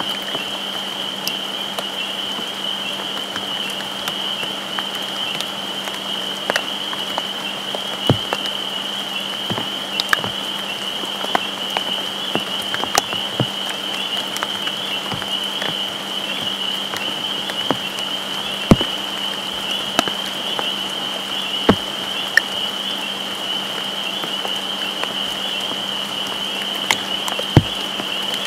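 Rain falling, with scattered sharp drops tapping close by, over a steady high-pitched whine.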